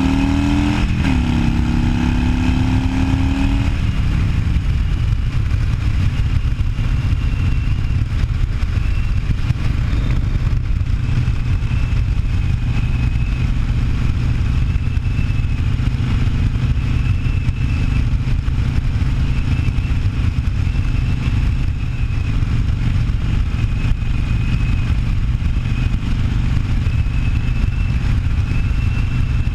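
Harley-Davidson Sportster 1200's air-cooled V-twin engine on the move, revving up and shifting up a gear about a second in, then easing off after a few seconds and running steadily at cruising speed.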